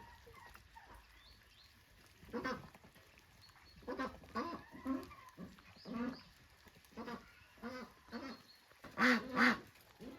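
Farmyard waterfowl calling: about ten short, nasal calls at irregular intervals, the loudest two in quick succession near the end.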